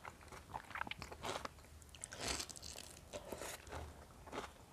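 Close-up chewing and crunching of raw vegetables, raw bitter gourd and fresh leaves, heard through a clip-on microphone as irregular crisp clicks and crackles, with a denser crunch about two seconds in.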